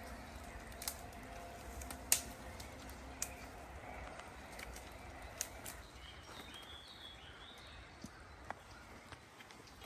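Forest ambience with a few sharp clicks or snaps at irregular intervals, and a bird chirping briefly about two-thirds of the way through.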